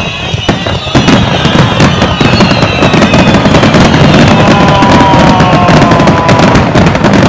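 Star mine fireworks finale: a dense, rapid-fire barrage of bursts and crackles that thickens and grows louder about a second in, with long, slowly falling whistles from whistling shells over the top.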